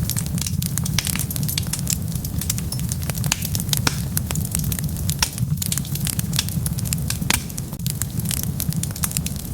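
Wood fire burning, with rapid irregular crackles and pops over a steady low rumble of flames.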